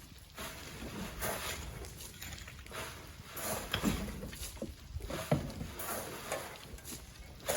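Sand being shovelled by hand and thrown into a truck: uneven scraping and swishing strokes about every second, with a few short sharp knocks in the middle.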